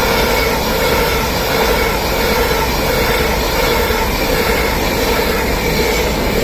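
Avanti West Coast Class 390 Pendolino electric train passing through the station: a loud, steady rush of wheels and air, with a steady whine held on a few even tones.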